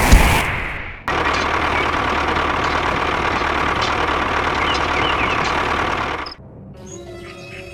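Steady engine-like running noise that breaks off for a moment about a second in, resumes, and stops abruptly near the end, leaving quieter tonal sounds.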